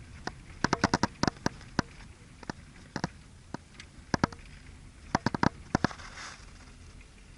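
Dry autumn leaves and twigs crackling and snapping underfoot. The quick sharp cracks come in two clusters, one about a second in and one past the five-second mark, with single snaps between them.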